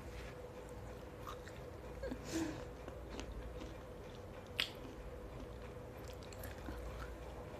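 A person chewing fresh fruit with mouth closed, faint, with a couple of small crunches, about two and a half and four and a half seconds in.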